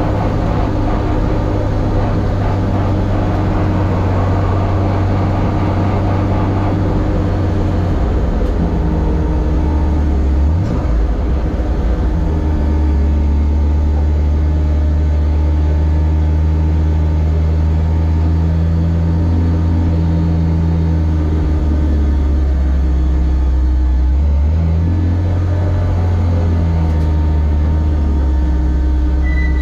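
Ford race car's engine heard from inside the stripped cabin, running at low revs as the car trundles slowly after its run. A brief rev rises about ten seconds in, then the engine settles into a steady low drone.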